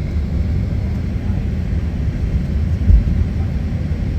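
Steady low rumble of aircraft noise, with one low thump about three seconds in.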